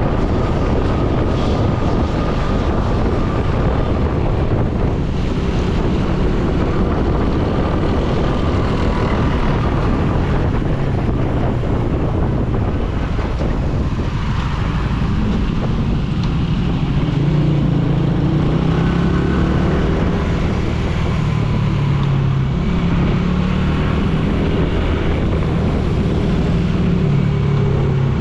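Motorcycle engine running under way, with wind buffeting the microphone. The engine's pitch rises and falls from about halfway through.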